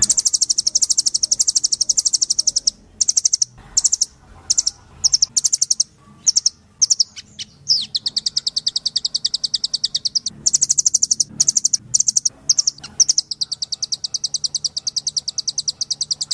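Blue nuthatch calling in fast, high trills of rapid repeated notes. Long runs come at the start and end, broken in the middle by short bursts and one brief falling note.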